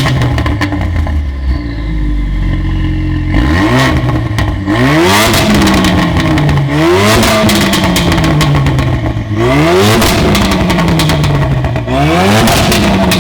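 Ford Focus RS 2.3-litre turbocharged four-cylinder engine, through an aftermarket Remus exhaust, revved sharply about five times. Each rev falls away slowly with crackling on the way down.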